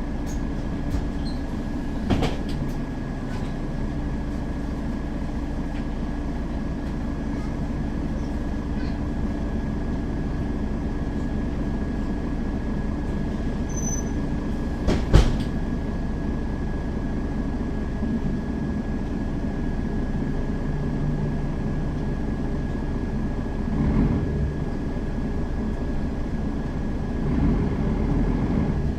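Interior sound of a Mercedes-Benz Citaro facelift city bus running: steady engine and road rumble with a thin high whine. A sharp knock about two seconds in and a louder bang about fifteen seconds in are rattles or bumps.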